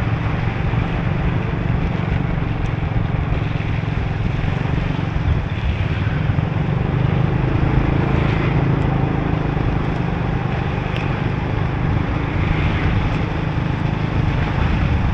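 Motorbike riding at road speed: a steady engine hum under wind on the microphone and the hiss of tyres on a wet road.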